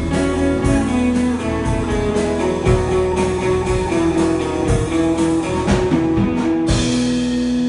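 Live worship band playing out the end of a song, with guitar and drums on a steady beat. It closes on a final hit about seven seconds in, leaving the chord ringing.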